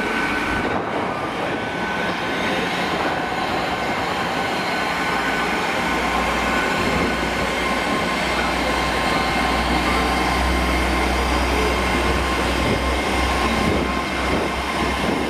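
Great Western Railway Hitachi Class 800 train moving away past the platform on its underfloor diesel engines. A continuous rumble of wheels on rail carries a few steady high whining tones, and a low engine hum grows stronger about six seconds in.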